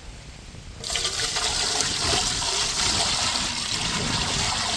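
Water poured into a saucepan, starting suddenly about a second in and running in a steady splashing stream.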